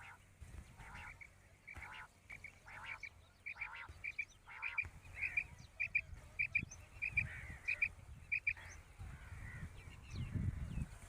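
Quail calling: rasping calls at first, then a long run of short paired notes at one pitch, repeated about once or twice a second. A low rumble comes in near the end.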